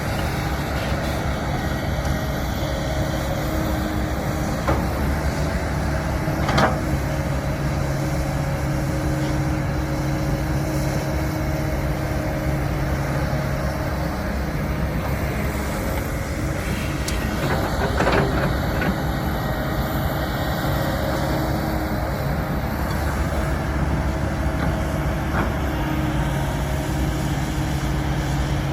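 Heavy diesel construction machinery running steadily at work, its engine note shifting now and then, with a few sharp knocks, the loudest about eighteen seconds in.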